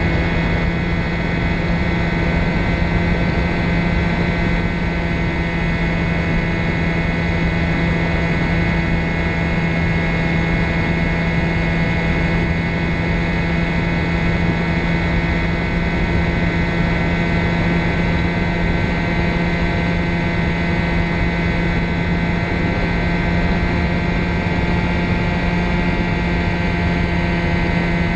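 Ultralight trike's engine and propeller running at a steady speed: one unchanging, loud drone with a rough rushing noise underneath.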